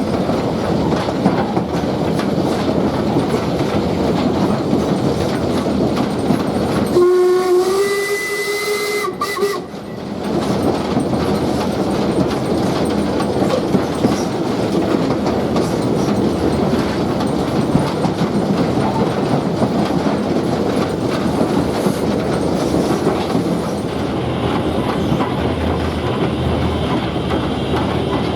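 Steam-hauled train running along the line with steady wheel-on-rail clatter. About seven seconds in, a steam locomotive whistle is blown once for about two and a half seconds, rising slightly in pitch.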